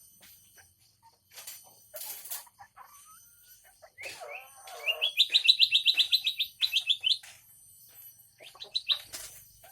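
A songbird singing a fast trill of high chirping notes, about ten a second, lasting about two seconds in the middle, with a shorter burst of the same notes near the end and softer calls and clicks around them.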